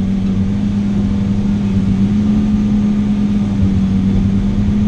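Log truck's diesel engine idling with a steady, even hum.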